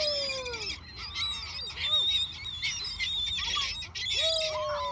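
A flock of seagulls calling: a dense chatter of high cries, with two long falling calls, one at the start and one a little past four seconds in.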